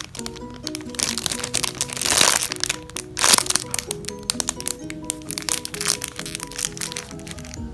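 Irregular crinkling and crackling of a foam squishy toy being squeezed, over background music; the loudest crackles come about two and about three and a half seconds in.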